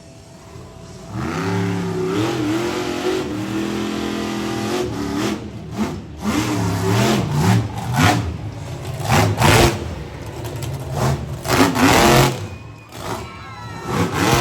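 Monster truck engine revving hard, its pitch climbing and falling, then a quick series of sharp throttle blasts in the second half.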